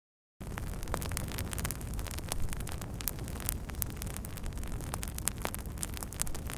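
Wood fire burning with a steady rushing sound and a low rumble, dotted with frequent sharp crackles and pops. It starts after a brief dead silence at the very beginning.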